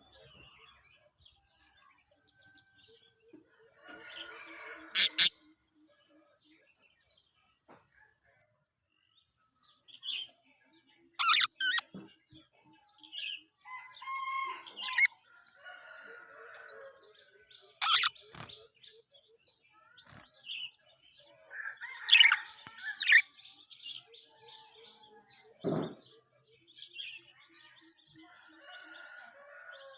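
Budgerigars chirping and chattering in short, scattered bursts with quiet gaps between, and a few sharp clicks among them.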